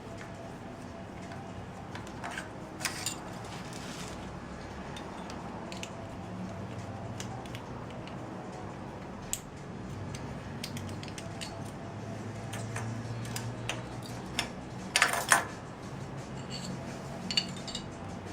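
Metal tools and parts clinking and clattering during hand work on a motorcycle engine, with scattered sharp clicks and a louder clatter about fifteen seconds in.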